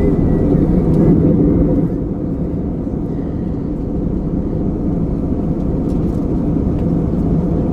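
Steady low drone of engine and cabin noise heard from inside a small aircraft in flight.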